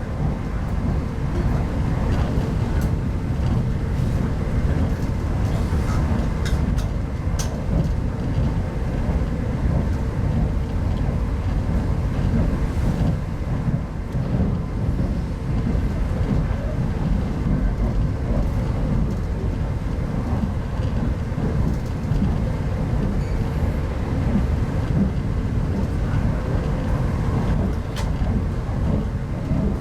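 Steady running noise inside a 25T passenger coach on the move: a dense low rumble of wheels on the track, with a faint steady hum and a few light clicks.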